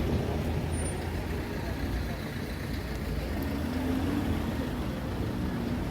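City street traffic: a steady low rumble of vehicle engines and tyres.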